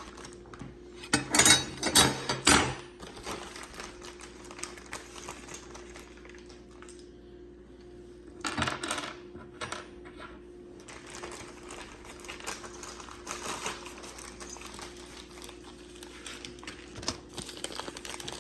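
Small steel bolts and washers clinking and rattling as they are tipped out of a plastic bag and handled, with a cluster of loud clinks about a second in and another burst about halfway through, then lighter clicks.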